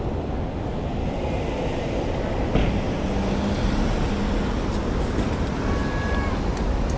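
Steady rolling and rushing noise of a bicycle ride, tyres on the path and air over the microphone. A single knock comes about two and a half seconds in, followed by a low steady hum and, near the end, a brief higher tone.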